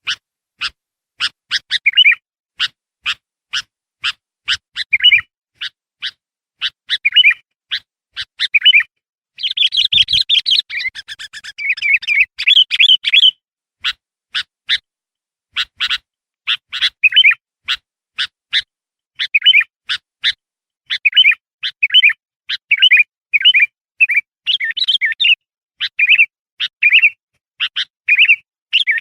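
A kutilang (bulbul) singing as a lure call for wild bulbuls. It gives sharp chirps repeated about twice a second, mixed with short warbled phrases. About nine seconds in there is a burst of dense chattering that lasts around four seconds.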